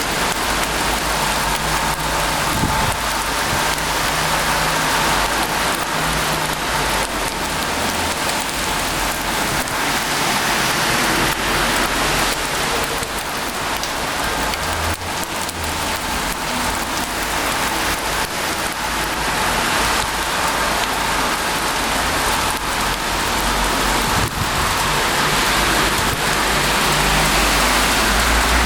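Heavy rain pouring steadily, a dense hiss of rain hitting surfaces.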